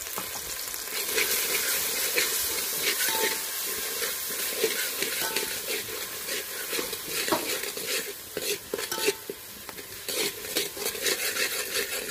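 Onions and ginger-garlic paste sizzling in hot oil in a metal pot while a flat metal spatula stirs them, scraping and clicking against the pot. The clicks come more often in the second half.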